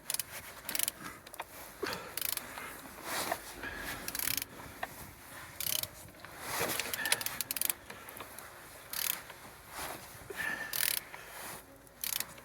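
Vauxhall Z18XER 1.8-litre four-cylinder petrol engine being turned over by hand. Clicks and short mechanical bursts come at uneven intervals as the crankshaft rotates. This is a check that the engine turns freely and has compression, which it does.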